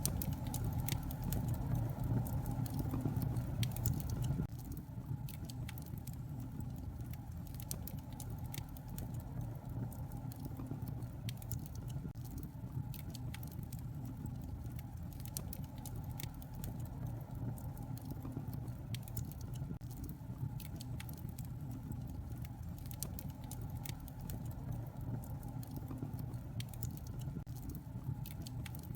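Wood fire crackling, with scattered sharp pops and ticks over a steady low rumble. The rumble drops a little about four seconds in.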